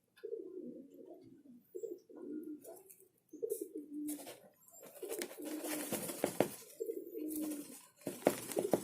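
Pigeons cooing over and over in short low phrases, several ending on a held note. Bursts of rustling with a few sharp clicks come in about halfway through and again near the end.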